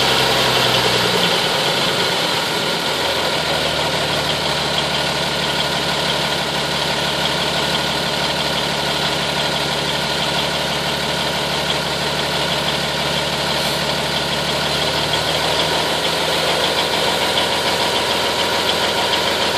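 M931 army truck's Cummins six-cylinder diesel idling steadily while it warms up after a cold start in freezing weather, its idle dropping slightly about two seconds in.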